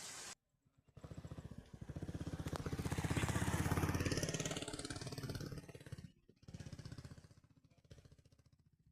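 Motorcycle engine running, after a second of near silence. Its rapid firing pulses swell to loudest three to four seconds in, break off briefly near six seconds, then come back and fade away.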